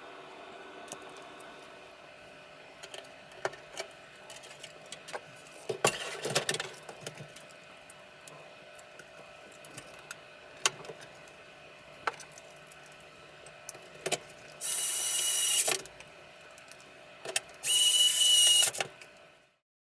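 Scattered clicks and knocks over a faint steady hum with a few held tones, then two loud hissing bursts of about a second each, each with a thin whistling tone in it; the sound cuts off suddenly near the end.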